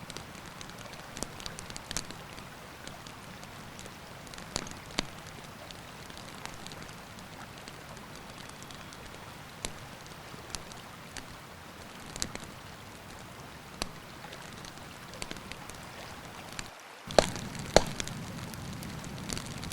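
Wood campfire crackling, with scattered sharp pops over a steady hiss. About 17 seconds in the sound drops out for a moment, then two louder cracks follow.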